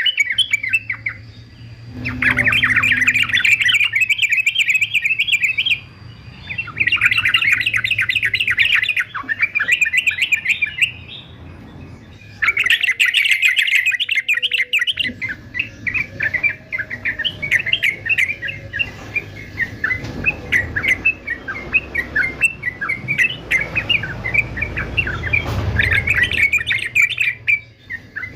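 Male yellow-vented bulbul (trucukan) singing in runs of rapid, chattering notes. The runs last a few seconds each with short breaks, and in the second half they merge into near-continuous chatter.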